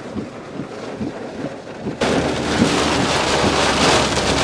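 Heavy rain beating on a car, heard from inside, over a steady low hum from the vehicle. It cuts in suddenly about two seconds in, after a quieter stretch of faint taps.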